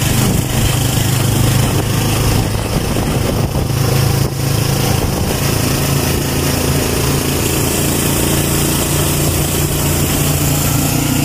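Small motorcycle engine of a tricycle (motorcycle with sidecar) running steadily on the move, heard from inside the sidecar with road and wind noise.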